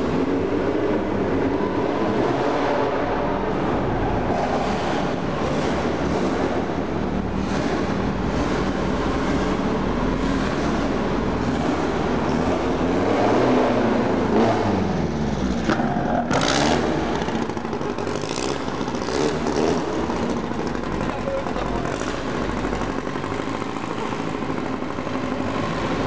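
Cars driving slowly past at low speed, engines running, with one engine's pitch rising and falling about thirteen seconds in and a brief hiss a few seconds later. Crowd chatter runs underneath.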